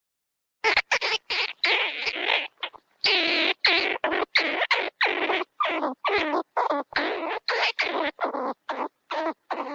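A rapid series of short, harsh animal calls, about three or four a second, starting about half a second in and going on without a break.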